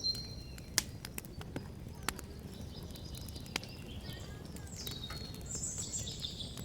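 Small birds chirping in short high calls, with a few scattered sharp taps over a steady low background hum of outdoor noise.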